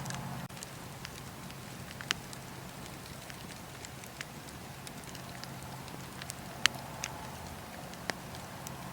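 Wood fire in a fireplace crackling: a steady hiss and low rumble with sharp pops every second or two, the loudest about two-thirds of the way through.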